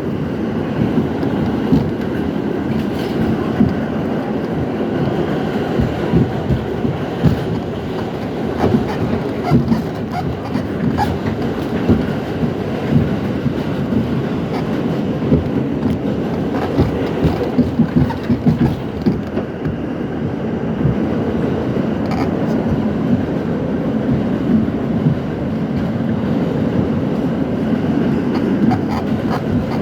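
R68 subway train running along the track: a steady rumble with irregular clicks and clacks from the wheels over rail joints.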